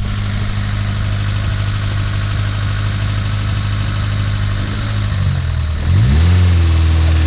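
Off-road vehicle's engine idling steadily, then revving up about five and a half seconds in and holding at higher revs, louder.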